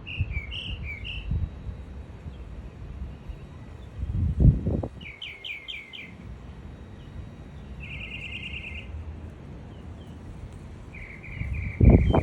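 Small birds chirping in short runs of quick, high notes: a few notes at the start, a run of about five about five seconds in, a fast trill about eight seconds in, and another run near the end. A low rumble sits under them, with a loud low thump about four and a half seconds in and another near the end.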